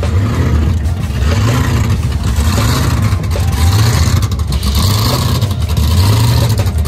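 Car engine running and revving, its pitch rising and falling in repeated waves.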